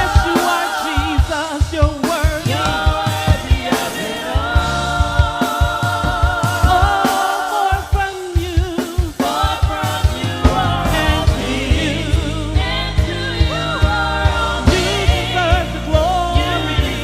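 Church worship team performing a gospel praise song: several voices singing with vibrato over drums, bass and keyboard. The band briefly thins out about halfway through before the full sound returns.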